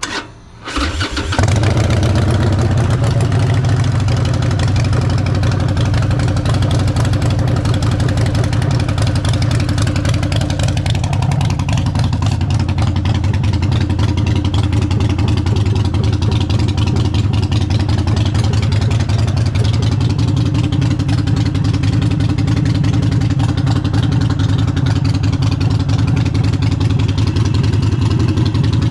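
Harley-Davidson Forty-Eight's air-cooled 1200 cc V-twin, with a Vance & Hines exhaust, being started: a short burst of cranking and a sputter, then the engine catches about a second in and settles into a steady, loud idle.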